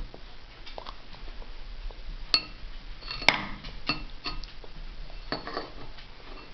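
A toddler's spoon clinking against a bowl of soup as she feeds herself: a few sharp knocks that ring briefly, the loudest about two and three seconds in, and a quicker cluster of clinks near the end.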